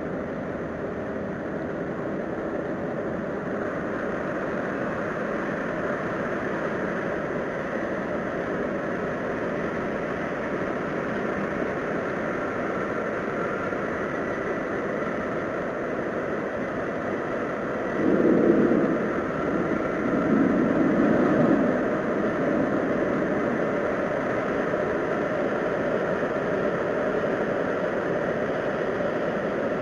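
Steady droning hum with faint held tones, swelling louder twice about two-thirds of the way through. This is the kind of low, trumpet-like sky sound that these recordings are presented as.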